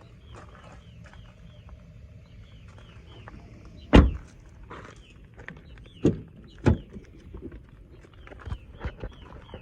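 Three sharp knocks over a low steady rumble, the loudest about four seconds in and two more around six to seven seconds, with smaller clicks between them and small birds chirping repeatedly.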